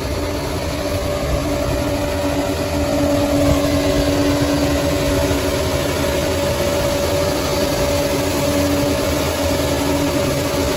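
Bulldozer's diesel engine running steadily under load, with a steady whine over the low rumble.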